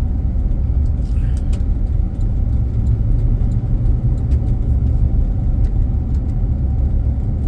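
Steady low road and engine rumble of a car, heard from inside its cabin while driving, with a few faint scattered clicks.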